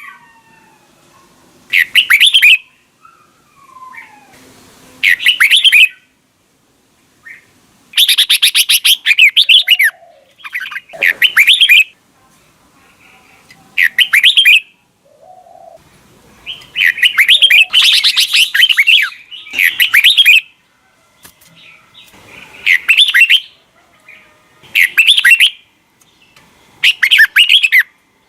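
Red-whiskered bulbul singing: short, loud phrases of quick warbling notes, repeated every two to three seconds, with fainter calls in the gaps between them.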